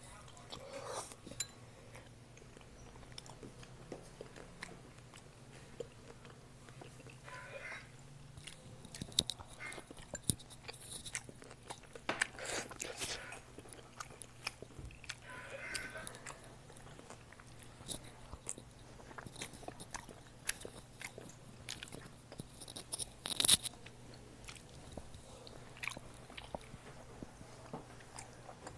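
Close-up eating sounds: chewing and mouth smacks on Korean spicy rice cakes and noodles, with chopsticks clicking against a bowl, in scattered, irregular bits. A sharp click just after the middle is the loudest sound.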